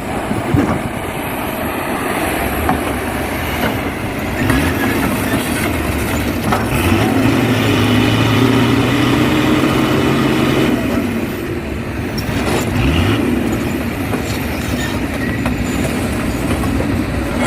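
Heavy diesel engine of a dump truck or excavator running hard at a worksite. Its note climbs about a third of the way in, holds steady and high for a few seconds, then drops back.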